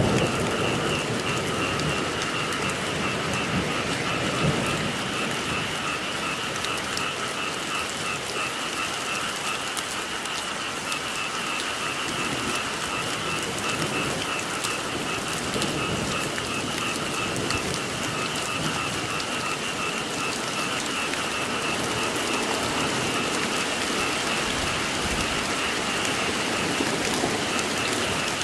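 Steady rain falling, with a continuous chorus of frogs calling as an unbroken high drone under it.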